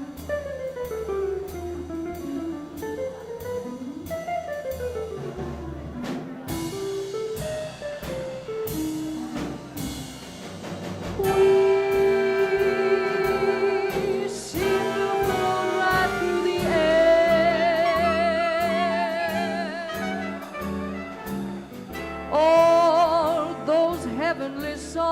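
Swing jazz band playing an instrumental break, with upright bass and drums keeping time under a solo melody line. About ten seconds in, the lead moves to long, louder held notes with vibrato.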